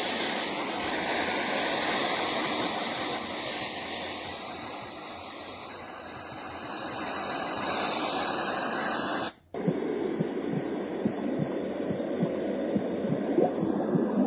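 FUNYKICH baby white noise machine playing its soothing sounds: a steady hiss for about nine seconds, then, after a brief cut, a duller noise with soft low pulses.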